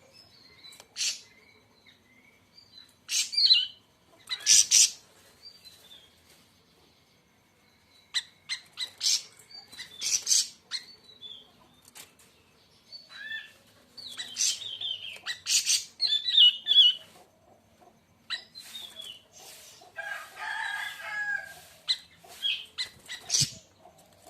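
Siri-siri raja (greater siri-siri) songbird calling: short, loud, sharp chirps and chattering phrases in irregular bursts, with a brief pause partway through.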